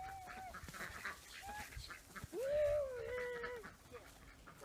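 Farm poultry calling: a couple of short honking calls, then one longer honk lasting over a second.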